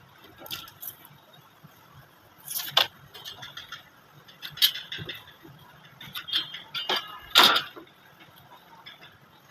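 Irregular clicks, knocks and light clinks of hand tools and wood pieces being handled at a workbench, with a couple of sharper knocks about three seconds in and again near the end.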